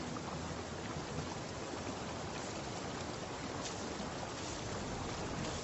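Steady, even rushing noise of water, with no distinct events.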